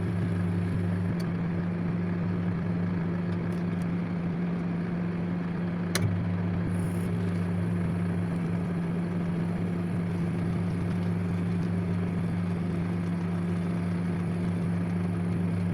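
Microwave oven running: a steady electrical hum over its fan noise. The lower part of the hum drops away about a second in and returns with a click about six seconds in.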